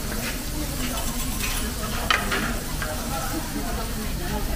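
Diced pork and pork-wrapped enoki sizzling in oil on a steel teppanyaki griddle, with a sharp metal clack about two seconds in as a spatula strikes.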